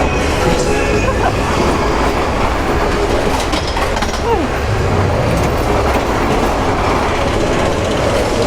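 Space Mountain roller coaster train running on its track: a steady, loud rumble and clatter of the cars' wheels.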